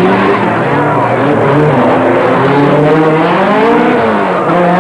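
Several race car engines revving together, their pitches rising and falling in overlapping glides.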